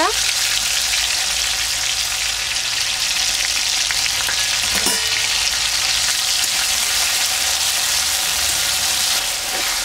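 Chopped tomatoes and ginger paste sizzling steadily in hot oil in an aluminium kadai, with a short clink about five seconds in and a metal spatula stirring near the end.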